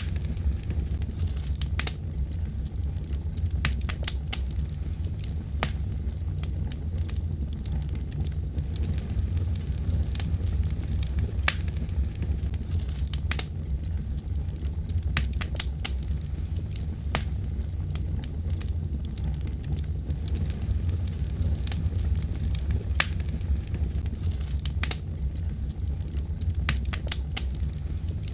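Wood fire burning with a steady low rumble and irregular sharp crackles and pops, some in quick clusters.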